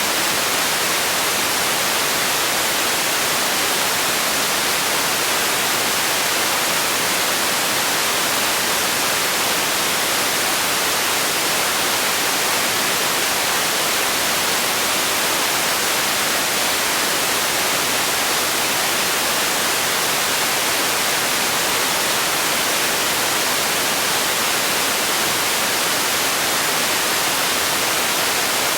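Steady white noise: an even, unbroken hiss, strongest in the high frequencies with little bass.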